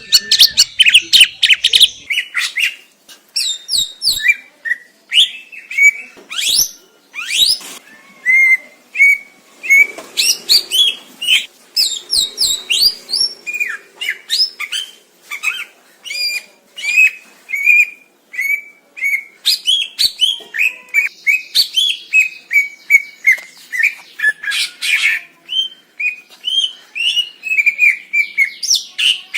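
Green leafbird (cucak ijo) singing: a long, continuous run of rapid, varied chirps, whistles and quick sweeping notes, with a steadier series of short repeated whistles in the middle.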